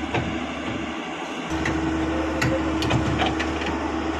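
Excavator's diesel engine running steadily; its low rumble drops out briefly about a second in, then comes back. Several sharp metal knocks and clanks follow in the second half.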